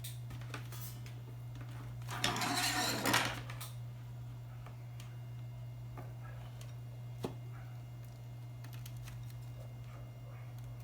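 Small clicks and clatter of hands handling speaker wires and the amplifier's connectors, with a louder rustle about two seconds in, over a steady low hum.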